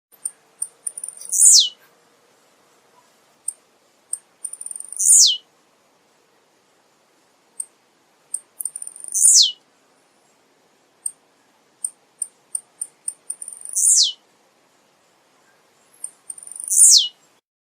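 Male blue-black grassquit (tiziu) singing its short song five times. Each phrase is a few quick high ticks ending in a sharp note that slides steeply down, repeated about every three to four seconds.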